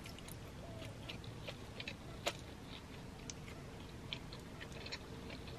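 Close-miked chewing of chow mein noodles: soft wet mouth clicks scattered throughout, with one sharper click a little over two seconds in.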